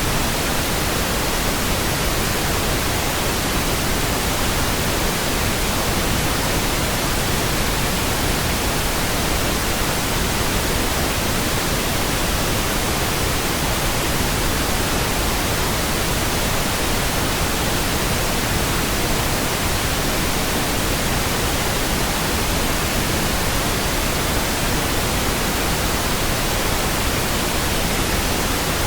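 Synthetic pink noise: a smooth, steady hiss spread evenly across the whole range, with no changes or events.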